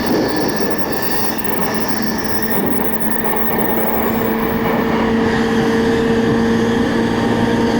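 Electric commuter train running on the Keiyo Line, heard from on board: steady rumble of wheels on rail, with a steady whine coming up about two and a half seconds in.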